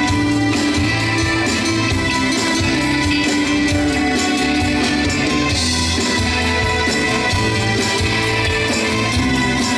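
Rock band playing loud and steady, with electric guitar, bass and drums.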